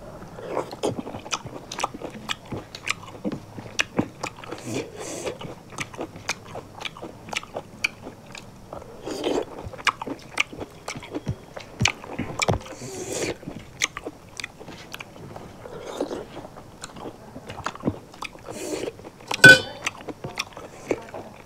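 Close-miked chewing and lip-smacking of two people eating rice, fish curry and crunchy singju salad by hand, with many small wet clicks. About nineteen seconds in there is one sharp ringing clink of a stainless steel plate.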